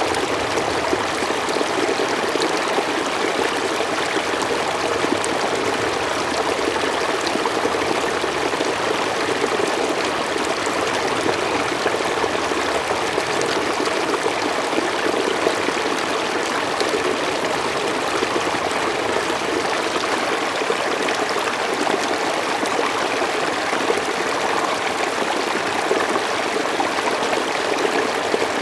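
Mountain stream flowing steadily over rocks, an even rushing and babbling of water with no change.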